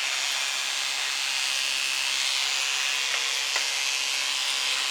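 Electric hair clippers switched on at the start and running steadily with an even buzzing hiss.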